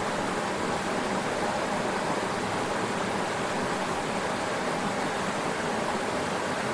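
Mountain headwater stream flowing, a steady, even rush of water.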